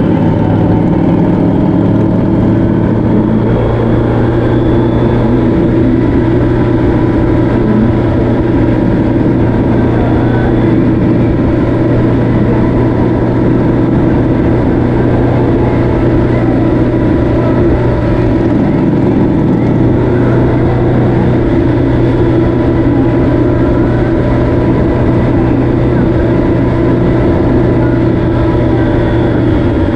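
Vehicle engine running at a steady cruising speed, its pitch drifting only slightly, under a constant rush of wind and road noise.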